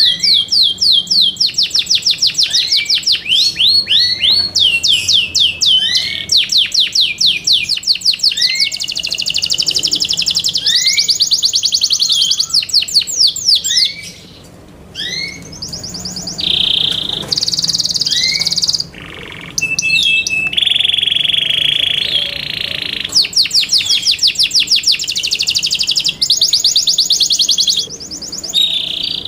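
Yorkshire canary singing: loud, fast trills of repeated notes that switch from one phrase to the next. The song breaks off briefly about halfway through, and a few steadier held notes come in the second half.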